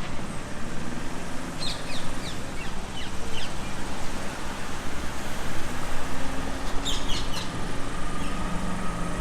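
City street ambience: steady background noise of traffic and the street, with short high bird chirps about two seconds in and again about seven seconds in.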